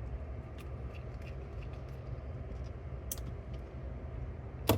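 Small, faint clicks and taps of a hand screwdriver tightening screws in a cassette deck's metal transport mechanism, with one sharper click near the end, over a steady low hum.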